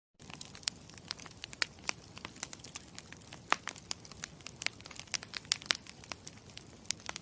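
Campfire crackling: a steady hiss under frequent sharp pops and snaps, several a second. It starts abruptly and cuts off abruptly at the very end.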